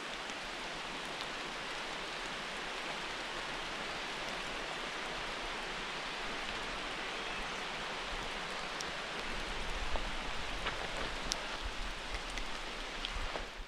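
Steady rain hiss with a few sharp ticks of drops. Uneven low rumbles come in over the last few seconds.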